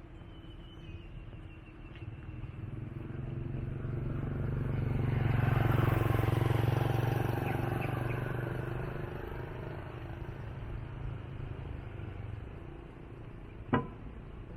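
A motor vehicle passes by, rising to its loudest about six seconds in and then fading away. A single sharp click comes near the end.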